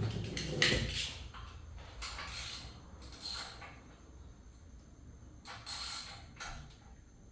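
Hand work on an engine's timing-chain assembly: short metallic scrapes and clinks of parts and tools being moved and fitted, a few at a time with pauses between, loudest about a second in.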